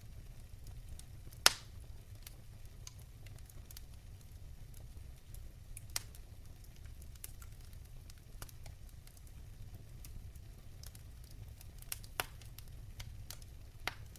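Fire in a fireplace crackling, with scattered sharp pops over a low steady rumble; one loud pop comes about a second and a half in.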